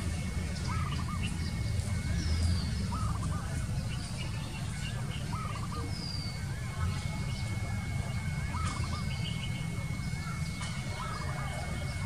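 Wild birds calling: a short trilled call repeated about every two to three seconds, with a few higher thin whistles from other birds, over a steady low rumble.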